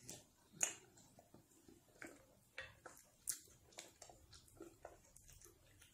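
A person chewing a mouthful of fufu with ogbono soup, faint wet lip-smacks and mouth clicks at an irregular pace, with hand-eating sounds from the plate.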